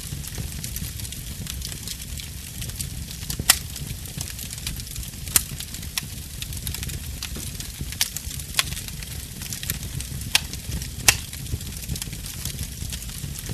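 Wood fire burning in a fireplace: a steady low rumble and hiss of flames with constant small crackles, and about half a dozen sharp, louder pops at irregular intervals.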